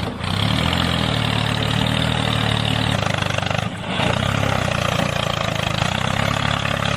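An engine running steadily at idle, with a brief drop about halfway through.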